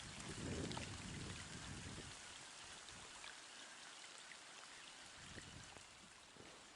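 Steady, faint hiss of rain, with scattered light drop ticks. A low rumble fades out over the first two seconds.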